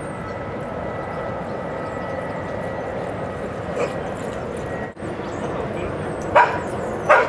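A dog barking: one faint bark about halfway, then two loud, sharp barks close together near the end, over a steady hiss of background noise.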